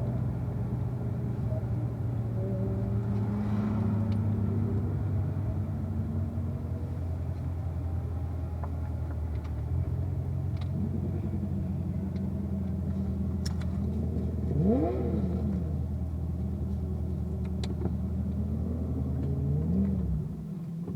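Corvette V8 engine running at a low, steady speed, with a brief rise and fall in pitch about two-thirds of the way through. The low engine note stops abruptly near the end.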